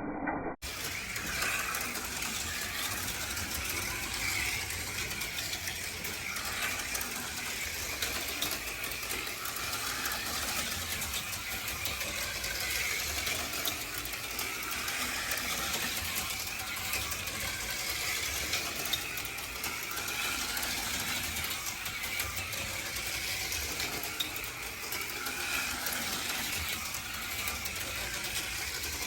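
HO-scale slot cars, an AFX Mega G stock car and a Tyco Cliffhanger, running laps on a plastic track: a steady high motor whine that wavers with speed, over the rattle and clicking of the cars in the slot.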